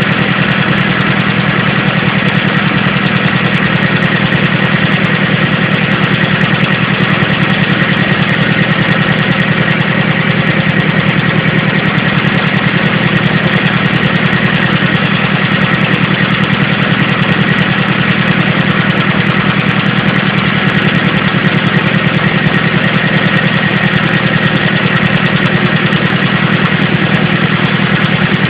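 Vehicle engine idling steadily with an even, rapid pulse and a faint high whine over it, the noise that the owner suspects may be abnormal.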